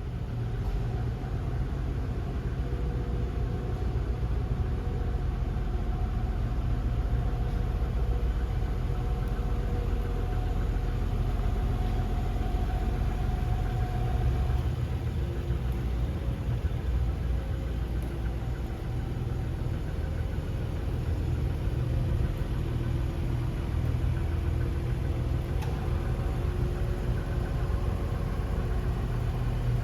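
Nissan 300ZX's twin-turbo 3.0L VG30DETT V6 idling steadily.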